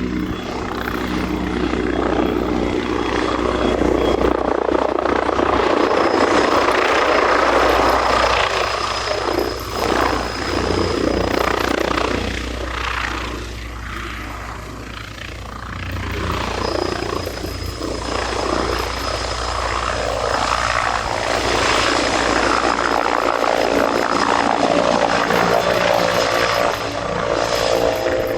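AH-129D Mangusta attack helicopter flying a display, its rotor and turbine noise swelling and fading as it manoeuvres past, with a thin high whine at times.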